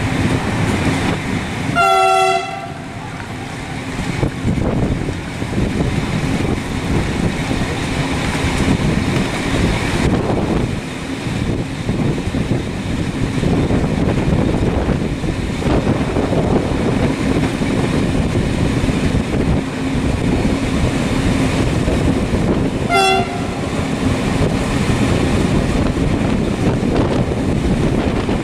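Steady rumbling vehicle noise, with two short pitched horn toots about twenty seconds apart.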